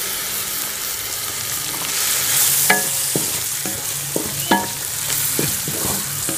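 Minced chicken sizzling in its released oil in a metal karahi while a wooden spoon stirs it. From about three seconds in, the spoon scrapes and knocks against the pan several times.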